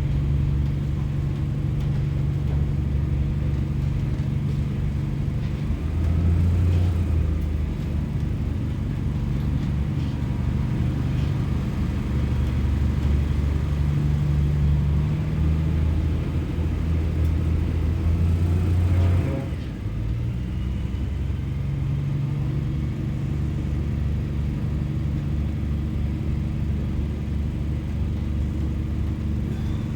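Class 144 Pacer railbus's underfloor diesel engine running with a steady low rumble, growing louder for stretches and dropping back noticeably about nineteen seconds in.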